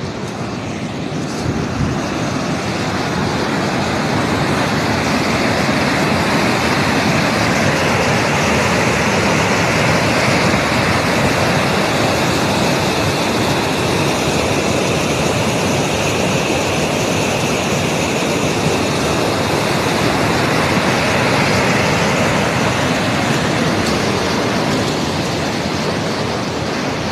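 Rushing water, a steady loud roar of a waterfall or mountain stream.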